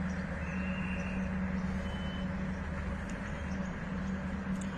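Passenger train running past with a steady low hum and rumble.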